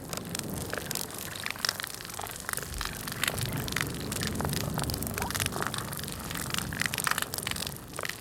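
Underwater recording of a coral reef: a dense, static-like crackle of many sharp clicks over a steady hiss, cutting off suddenly at the end.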